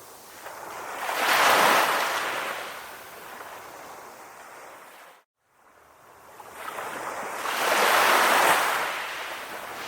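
Calm ocean waves breaking and washing up, two surges swelling and fading away. The sound cuts out completely for about half a second halfway through.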